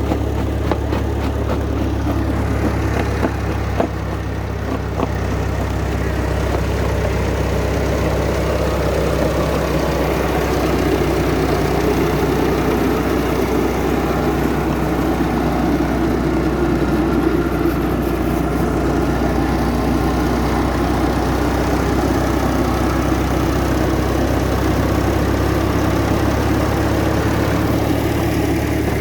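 Old tractor engine running steadily, driving a rock crusher by a long flat belt, with clattering knocks in the first several seconds as the machine works.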